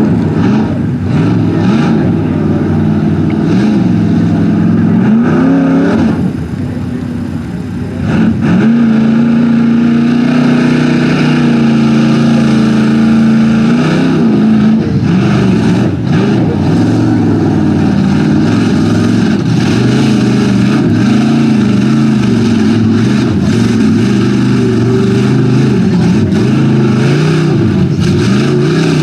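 Lifted Chevy mud truck's engine revving hard as it runs through a mud bog pit, its pitch surging up and down. It drops back about six seconds in, then holds a high steady pitch for several seconds before surging again.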